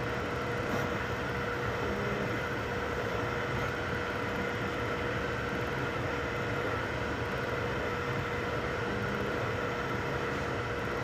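3D printers running mid-print: a steady whir of cooling fans and stepper motors, with a constant whine in two pitches.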